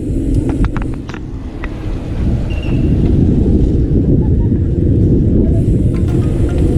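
Wind buffeting the microphone of a bike-mounted or handheld camera while riding, a loud steady low rumble with a few short clicks, likely from the bike, about a second in and near the end.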